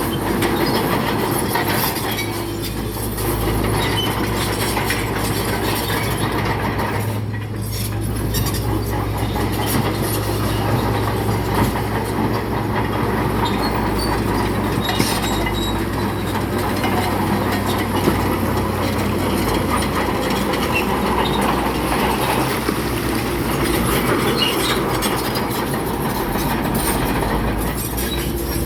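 Crawler bulldozer working: its diesel engine runs steadily while the steel tracks clank and squeal. The engine note changes about two-thirds of the way through.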